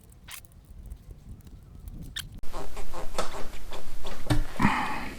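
Rubber coolant hose being twisted and worked off its fitting on a Honda VT500 V-twin, squeaking and scraping in quick short strokes from about halfway in, with a louder squeak near the end.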